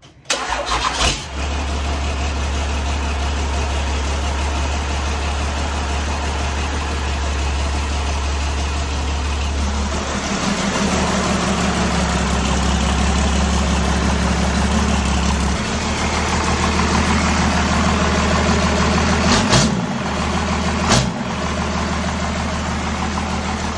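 Truck engine running steadily at idle, its note shifting about ten seconds in. Two short sharp knocks come near the end.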